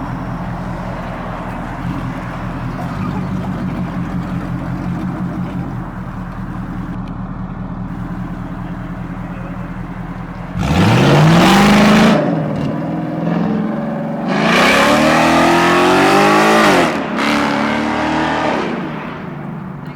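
Car engine idling, then revved hard about ten seconds in, its pitch sweeping up and dropping back, with a second longer rev a few seconds later and a shorter third one near the end.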